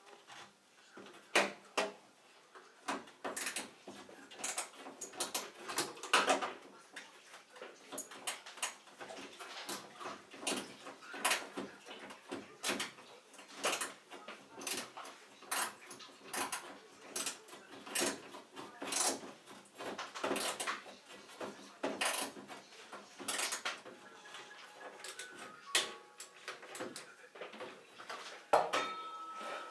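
Irregular, rapid clicks and knocks of tools and machine parts being handled, with a faint steady tone near the end.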